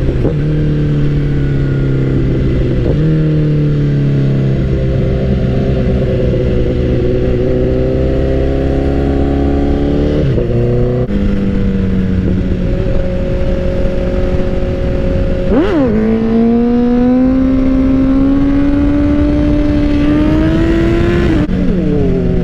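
2012 Honda CBR1000RR's inline-four engine running under way. Its pitch steps with gear changes about three and eleven seconds in, gives a quick sharp rev blip about two-thirds through, then rises steadily through a long pull before dropping off near the end.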